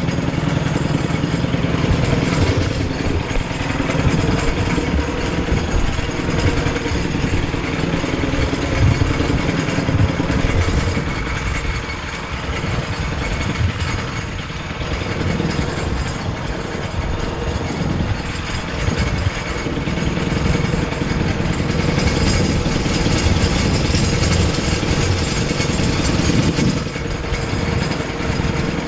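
Motorcycle engine running continuously, slightly quieter for a few seconds in the middle.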